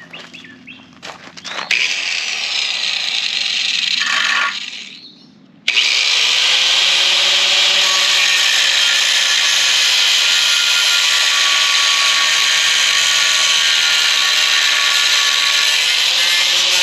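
Power tool cutting through the exhaust pipes to take the old mufflers off: a first cut that dies away about four seconds in, then after a short pause the tool starts abruptly and cuts steadily.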